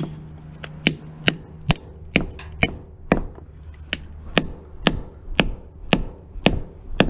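A hammer striking a cast-iron scrap piece again and again, about two blows a second, some with a short metallic ring, as he tries to break the cast away.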